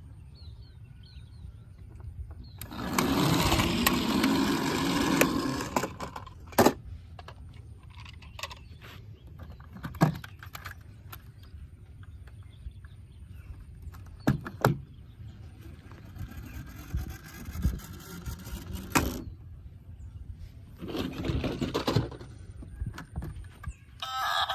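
Handling noise from toys: two bursts of scraping and rustling, and a few sharp clicks and knocks in between, over a low rumble.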